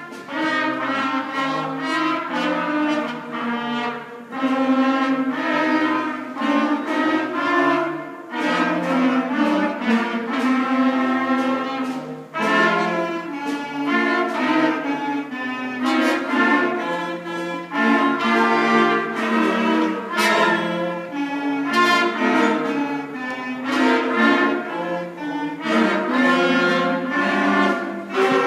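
A fifth-grade school concert band of wind instruments and percussion playing a piece. Chords change every second or so over a steady beat.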